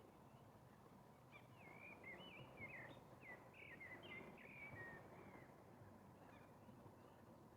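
A bird singing faintly: a quick run of short, bending whistled notes starting about a second in and lasting about four seconds, over a faint steady outdoor hiss.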